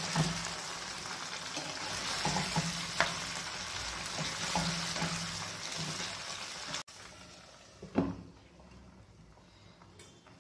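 Paneer cubes sizzling as they shallow-fry in oil in a pan, with a spatula scraping and clicking against the pan. The sizzle stops abruptly about seven seconds in, leaving a faint hiss, and a single knock sounds about a second later.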